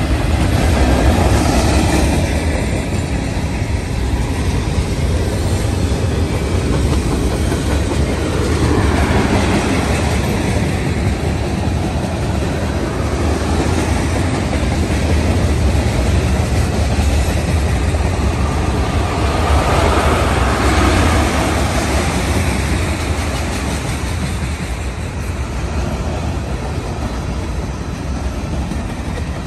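Freight train cars (boxcars, tank cars and covered hoppers) rolling past on the rails: a steady low rumble with wheel-on-rail noise that swells a few times.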